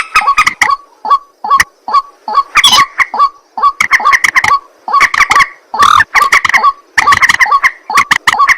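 Loud, rapid calls of a rail, the white-breasted waterhen or moorhen type: short clucking notes several a second, in runs broken by brief gaps.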